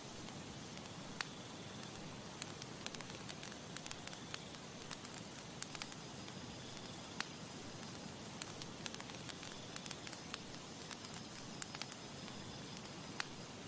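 Campfire burning with a steady low hiss and frequent sharp, irregular crackles and pops from the burning wood.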